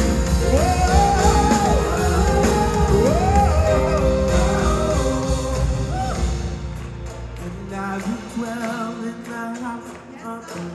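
Live gospel music: voices singing over a full band with heavy bass and drums. About two-thirds through, the band drops out and it gets quieter, leaving voices singing with vibrato.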